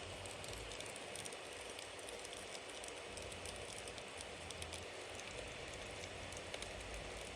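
Campfire burning with a steady hiss and many small crackles and pops from the burning wood.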